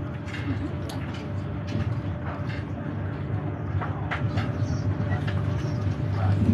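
Inside a moving passenger train: a steady low rumble of the carriage running, with a faint steady hum and occasional light clicks.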